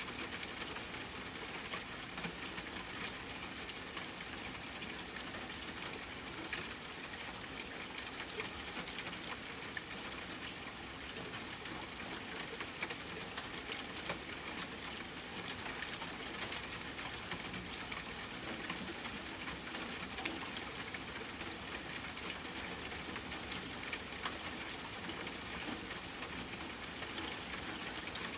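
Steady rain falling, with a continuous hiss and many small drop ticks spread through it.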